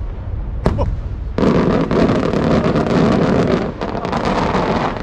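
Maltese cylinder firework shells bursting: a single sharp bang just under a second in, then a dense crackling salvo of rapid reports for a couple of seconds, going on more faintly after that.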